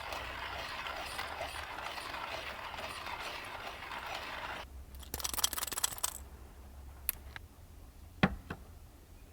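Steady rain hiss that cuts off abruptly about four and a half seconds in. About a second of rapid mechanical clicking follows, then a few separate clicks and taps.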